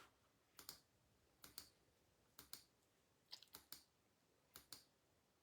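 Faint clicking at a computer: short sharp double clicks, about one pair a second, with a quicker run of clicks around the middle.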